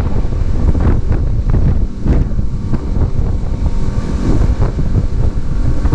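Strong gusting wind buffeting the microphone, a loud low rumble, with choppy water against a small boat's hull.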